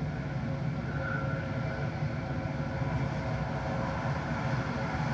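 Jet airliner engines running steadily: a low, even drone with a faint steady whine above it.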